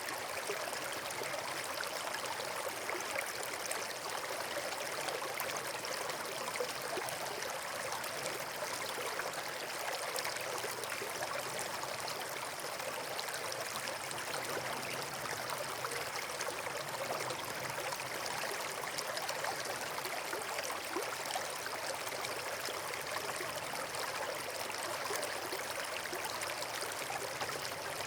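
Steady, unbroken rush of flowing water, like a stream or small waterfall.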